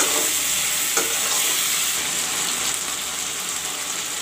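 Chicken pieces and sliced onions sizzling steadily as they fry in mustard oil in an aluminium kadai. A spatula scrapes and knocks against the pan at the start and again about a second in.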